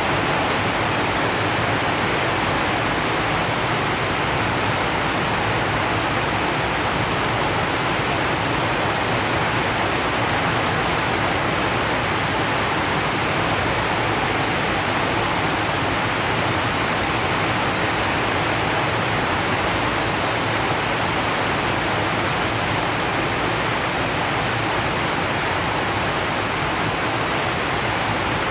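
Rain falling steadily on a zinc sheet roof, an even hiss with no single drops or changes standing out.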